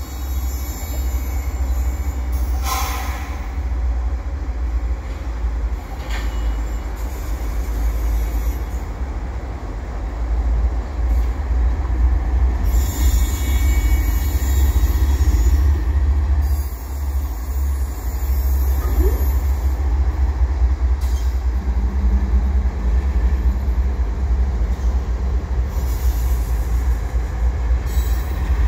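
A freight train led by two Canadian Pacific GE ES44AC diesel locomotives moves slowly past at close range. The locomotive engines run loud and steady under the clatter of wheels on rail. High wheel squeal comes through now and then, and a steady low hum begins in the second half.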